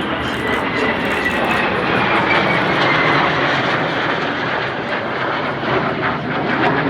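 Jet engines of a RAAF KC-30A tanker passing in a flypast: a loud, steady jet noise with a high whine that slides slowly down in pitch as it goes by.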